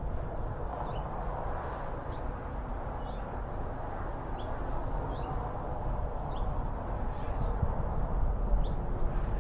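Small birds chirping, short high notes scattered irregularly, about a dozen in all, over a steady low outdoor rumble that grows a little louder near the end.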